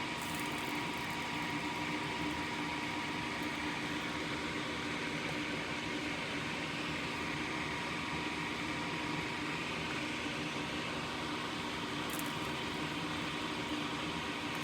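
Steady hiss and hum from equipment running continuously, with a faint steady high tone and no change throughout.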